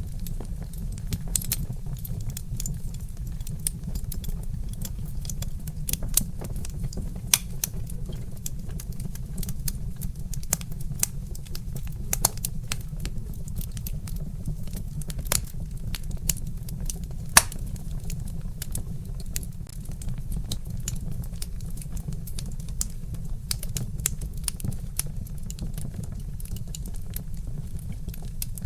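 Wood fire crackling in a fireplace: irregular sharp snaps and pops, a few louder ones scattered through, over a steady low rumble.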